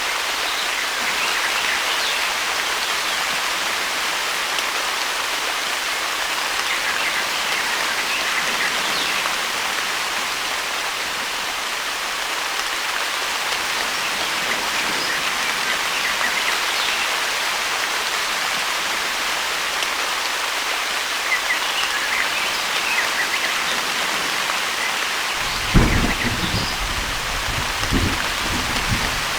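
Steady rain falling, with a sudden clap of thunder near the end that rumbles on for a few seconds.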